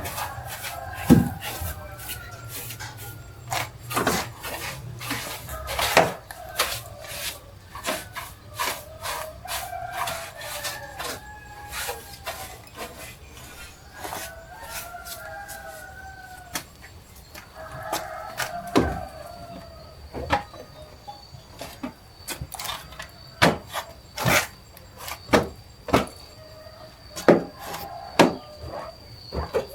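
Hand-tool work on metal: irregular knocks and taps, one every second or so, with rubbing and faint squeaks in between. A thin steady high whine joins about halfway through.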